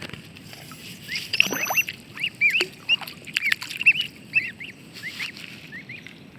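Ducklings peeping: a quick, steady run of short, high chirps, with a few light taps among them.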